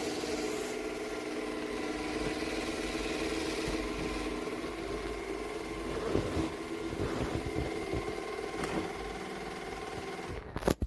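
Robot vacuum cleaner running: a steady motor hum made of several held tones over a rush of suction noise, with small rattles and clicks. It cuts off suddenly near the end.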